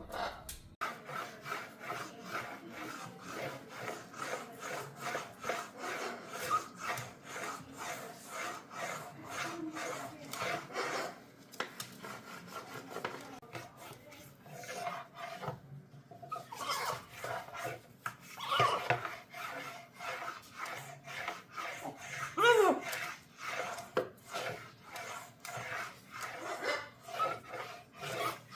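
Macaw scrubbing its beak and face against a sink, a rhythmic rasping scrape of about two or three strokes a second. A couple of short squeaks cut through, the loudest about three-quarters of the way in.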